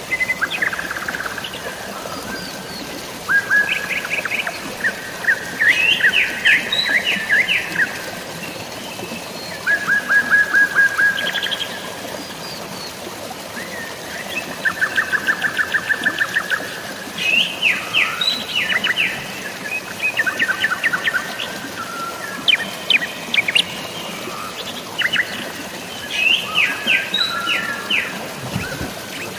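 Songbirds chirping and trilling in quick series of rapidly repeated notes, one series after another, over a steady hiss of water.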